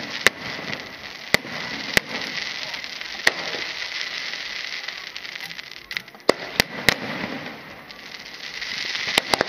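Aerial fireworks: a dense, continuous crackling with sharp bangs of bursting shells, about nine in all, three in quick succession past the middle and two close together at the end. The crackling thins briefly shortly before the end.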